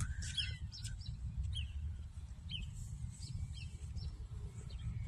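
Small birds chirping: a scattered series of short, quick chirps over a low steady rumble.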